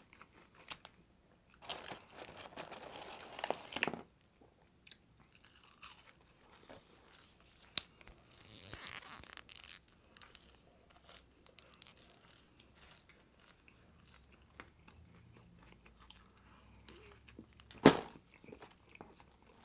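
Close-miked chewing and biting of a fast-food burger: wet mouth clicks and crunching, with two louder noisy stretches of a couple of seconds each. A single sharp click comes near the end.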